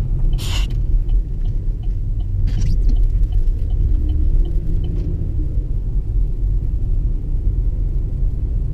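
Wind and road rumble from a moving car, picked up by a GoPro HERO4 suction-cup-mounted on the car. Two short whooshes sound about half a second and two and a half seconds in.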